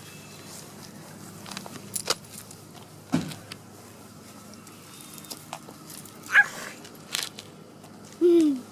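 A cicada giving brief, scattered buzzes and clicks, the distress buzz of an insect being handled or pawed. A short falling whine comes near the end.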